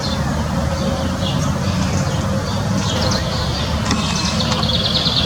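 Small birds chirping, with a fast, evenly pulsed trill about four seconds in, over a steady low rumble.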